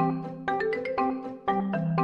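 Light background music: a bouncy tune of short struck notes over a held bass note, the phrase repeating about every second and a half.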